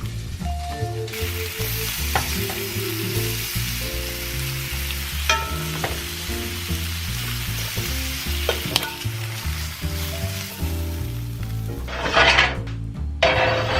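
Food sizzling as it fries in a hot pan, with a louder burst of sizzling near the end, over background music.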